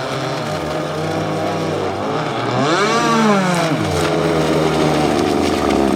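Two-stroke gas engines of RC catamaran speedboats running on the water, one engine's pitch swelling up and falling back about halfway through over a steadier engine drone. The engines are brand new and still being broken in.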